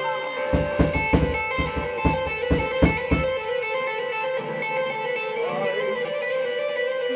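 Band music led by electric guitar, with a quick run of low hits in the first three seconds, then sustained notes.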